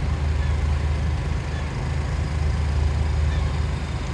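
Steady low engine rumble with a haze of noise over it, and a few faint short bird cries now and then.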